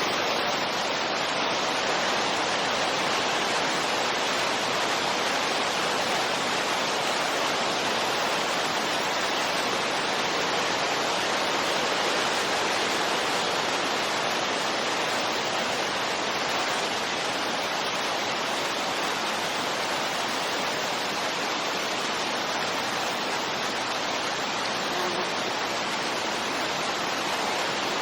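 Steady rushing wind noise, even and unchanging, with no gusts or lulls.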